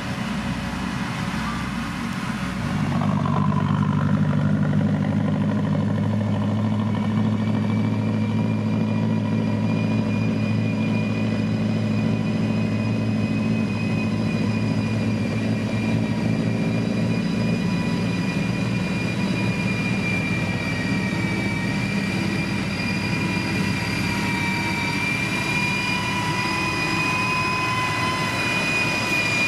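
Heavy road-construction machine's diesel engine running under steady load. It gets louder about three seconds in, and a steady high whine runs over the engine hum.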